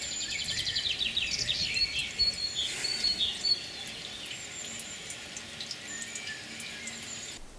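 Wild birds singing and chirping, several overlapping high whistles and quick trills.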